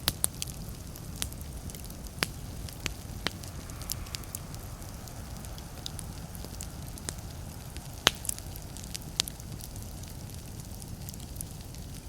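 Wood fire crackling in a fireplace: irregular sharp pops and snaps over a steady low rumble of the flames, with one louder pop about eight seconds in.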